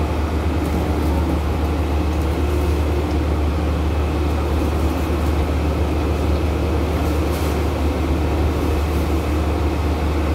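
Steady low rumble and hum inside a passenger train carriage, with a few faint clicks.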